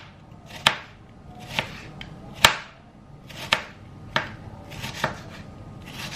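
A dull kitchen knife chopping onion on a cutting board: about seven sharp knocks, unevenly spaced roughly a second apart.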